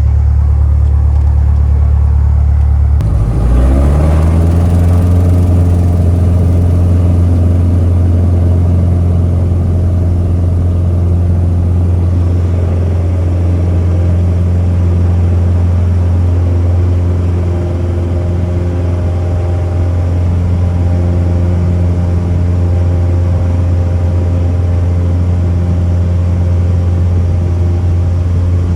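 Light piston aircraft's engine heard from inside the cabin, a loud steady drone that rises in pitch about three seconds in as power is brought up, then holds steady.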